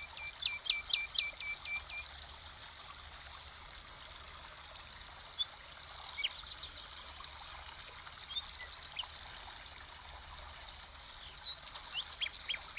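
Songbirds singing over a steady rush of running water: a quick run of about seven repeated down-sweeping notes in the first two seconds, scattered calls in the middle, a high buzzy trill about nine seconds in, and more calls near the end.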